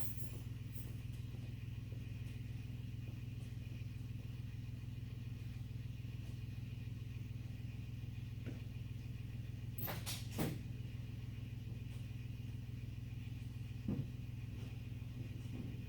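A steady low mechanical hum that does not change, with a few brief clicks about ten seconds in and again near fourteen seconds.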